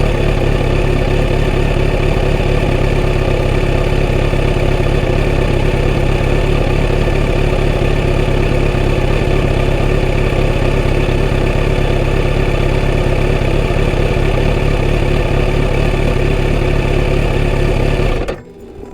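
Kawasaki Z900RS inline-four engine idling steadily through its stock full exhaust system, the sound cutting off suddenly near the end.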